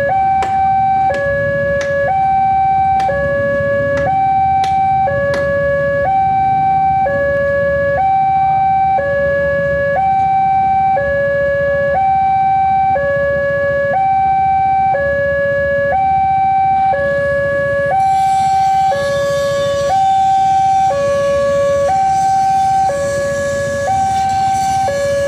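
Electronic two-tone railway warning alarm alternating steadily between a high and a low tone, each held under a second, signalling that a train is approaching. Sharp ticks sound about twice a second over the first few seconds, and a rushing noise joins past the two-thirds mark.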